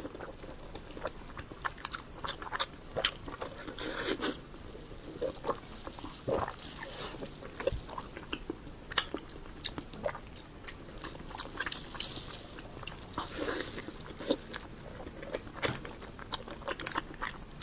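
Close-miked eating: a person biting and chewing pork belly, with irregular crunches and wet mouth clicks.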